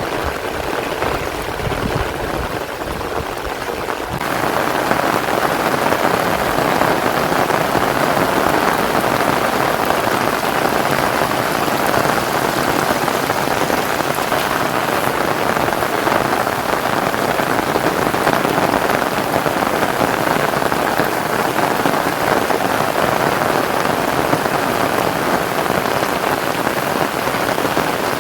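Heavy rain pouring down steadily, a dense hiss of drops on surfaces that gets louder about four seconds in and then holds.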